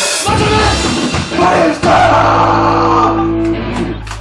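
Live rock band playing: a cymbal crash ringing out at the start, then electric guitar and drums in a short phrase ending on a held note, with a steady low hum coming in about halfway.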